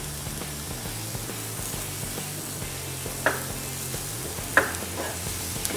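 Chopped onion and garlic frying gently in butter in a kadhai, a soft sizzle, with three short scrapes of a spatula against the pan in the second half. A steady low hum runs underneath.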